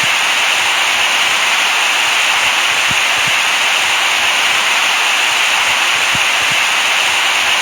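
Steady white-noise hiss, brightest in the upper-middle range, with faint low thumps every few seconds.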